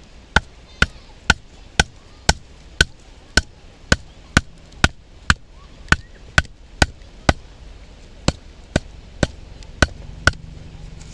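Batoning firewood: the spine of a Mora knife is struck again and again, about two sharp knocks a second, each with a short ring, driving the blade into a hard piece of wood that won't split. After about fifteen strikes there is a brief pause, then five more.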